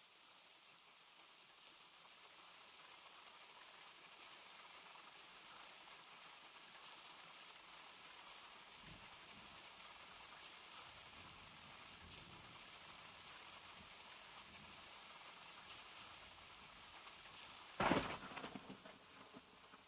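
Steady rain falling, a dense hiss of drops with small ticks, with a few low rumbles in the middle. Near the end comes one sudden loud crack that dies away over a second or so.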